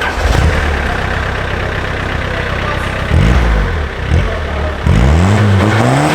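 Opel Corsa B's 1.7 turbo-diesel engine running and being revved. The pitch rises and falls about three seconds in, then climbs steadily near the end before cutting off suddenly.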